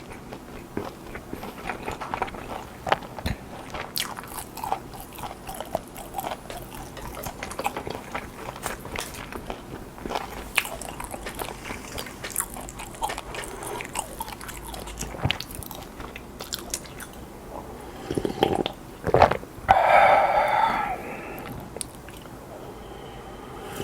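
Close-miked eating sounds: biting, crunching and chewing, with many small sharp clicks. About twenty seconds in there is a short, louder pitched sound lasting about a second.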